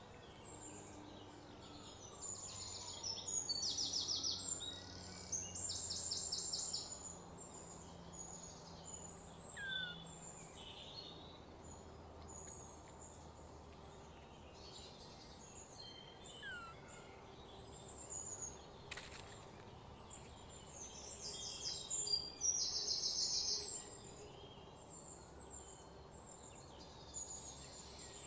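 Birds singing outdoors: repeated bursts of high, rapid trills with a few short chirps between them, loudest early on and again about three quarters of the way through, over a low steady background hum. A single sharp click sounds partway through.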